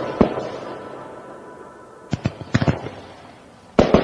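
Fireworks going off in clusters of sharp bangs: one just after the start, a quick run of several about two seconds in, and another burst near the end. Under them is the fading tail of background music.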